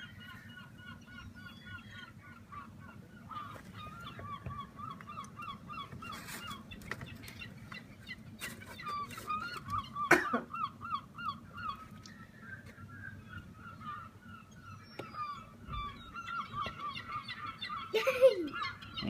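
Gulls calling over and over in quick, short, repeated notes, several birds overlapping, with a sharp click about ten seconds in.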